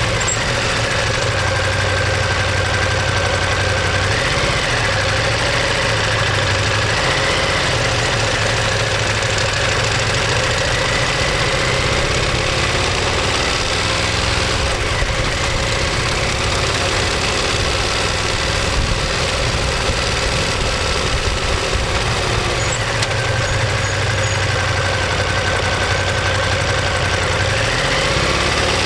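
Ducati Monster 1200S's 1198 cc L-twin engine and exhaust running steadily, its pitch rising briefly about four seconds in and again near the end.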